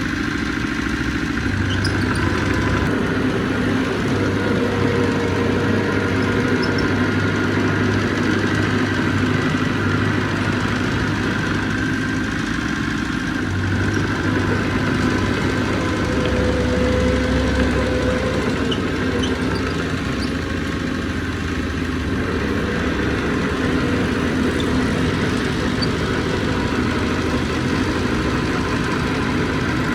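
Heavy diesel engine of earthmoving machinery running steadily, easing a little and picking up again at times.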